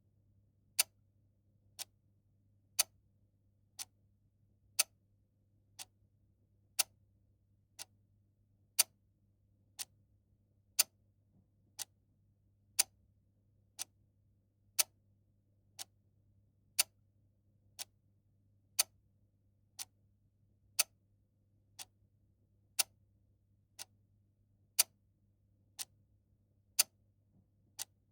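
Mechanical clock ticking once a second in an even tick-tock, a louder tick alternating with a softer tock, over a faint low hum.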